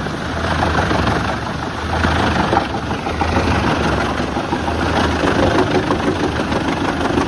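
Tractor-driven wood chipper (Eschelbach Biber 92 on a Fendt 1042 Vario) running: a steady, deep engine drone under a coarse, uneven grinding noise as logs are chipped.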